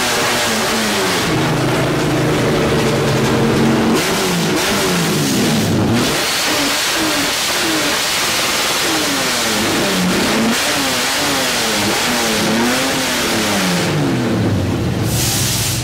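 Chevrolet Opala straight-six with triple Weber carburettors being revved while parked: held at high revs for a couple of seconds, then a string of quick throttle blips, each rising and falling in pitch, settling back to a steadier low tone near the end.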